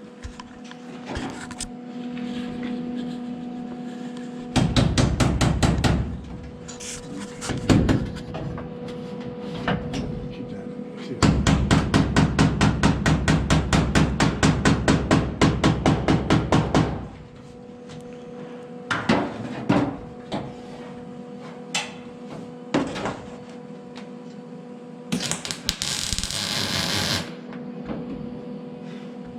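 Hammer blows in quick, even runs: a short burst and then a longer steady run of about four or five strikes a second, with a few single knocks between. Near the end there is a brief hiss.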